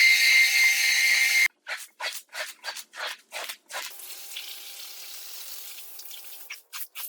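Carpet being cleaned. A loud steady hiss with a whine cuts off suddenly about a second and a half in. About eight quick scrubbing strokes on the carpet follow, then a faint steady hiss, then a few more quick strokes near the end.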